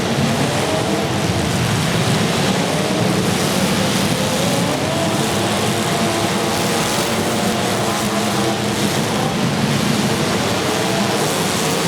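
Demolition derby car engines running loud and revving, with pitches rising and falling as the cars drive in the arena.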